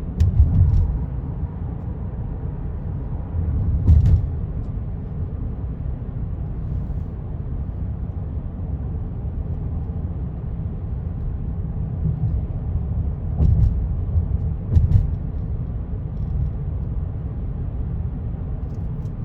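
Road and engine noise of a car being driven, heard from inside: a steady low rumble with a few brief thumps, the loudest about half a second and four seconds in.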